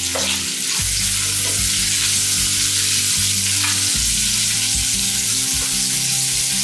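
Vegetables sizzling steadily in hot oil in a metal kadhai as cut pieces of drumstick, yam and brinjal are tipped in, with a few light knocks.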